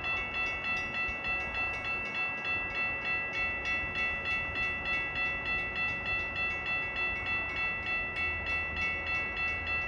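Railroad grade-crossing warning bell ringing steadily at about four strikes a second, the signal that a train is approaching.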